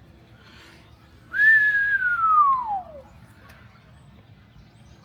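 A single long whistled note, starting about a second in, that rises briefly and then glides steadily down in pitch for about a second and a half.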